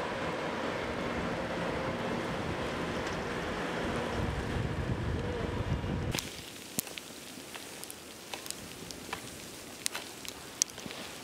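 Wind buffeting the microphone in a snowstorm: a steady rushing noise with a low rumble. About six seconds in it cuts to a quieter scene with scattered sharp clicks and ticks.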